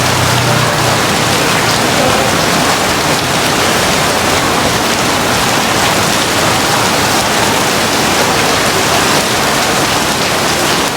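Heavy rain falling steadily in a loud, even downpour.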